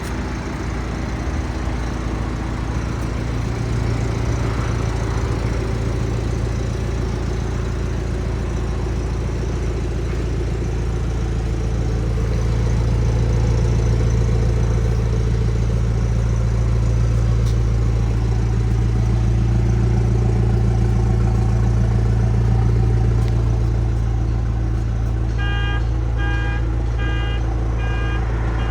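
A vehicle engine idling steadily with a low drone that grows a little louder partway through. Near the end, a regular series of electronic beeps starts, about one and a half a second.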